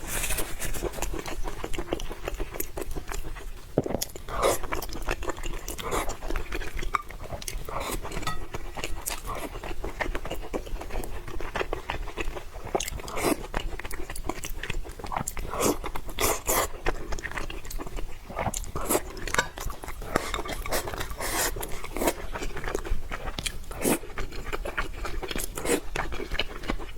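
Close-miked chewing and biting of food, a steady run of small wet mouth sounds and clicks.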